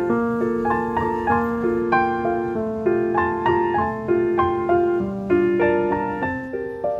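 Background music: a gentle piano tune playing a repeating pattern of notes at a steady, even pace.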